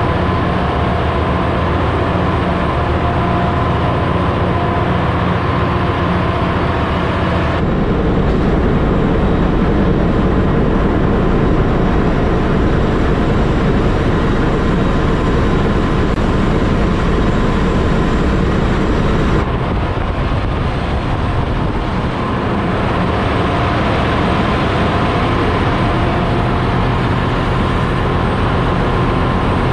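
Loud, steady drone of a ship's engine-room machinery running, with a constant hum of several steady tones over it. The mix of the noise changes abruptly about eight seconds in and again about twenty seconds in.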